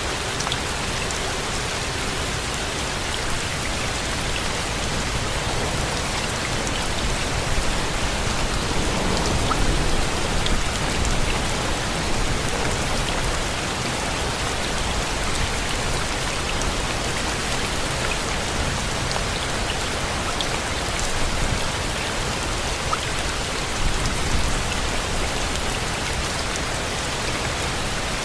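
Steady rain falling, with individual drops heard as small ticks, swelling slightly about ten seconds in.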